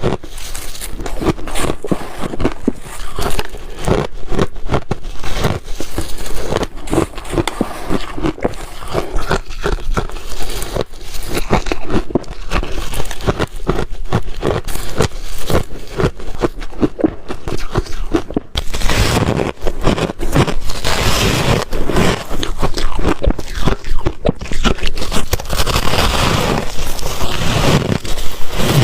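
Ice being bitten and chewed up close to the microphone: a continuous run of loud, rapid crunches and crackles, getting denser near the end.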